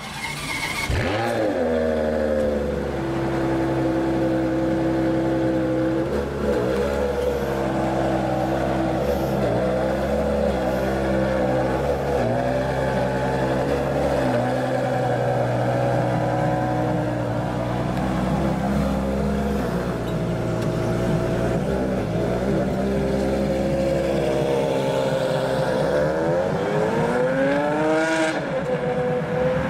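Ferrari 599 GTO's V12 flaring up about a second in, then idling steadily. Near the end it revs up twice as the car pulls away.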